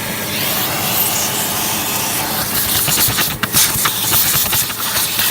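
Vacuum cleaner running with a steady loud whooshing hiss as it sucks dust off a part, with a few sharp clicks and rattles a little past halfway.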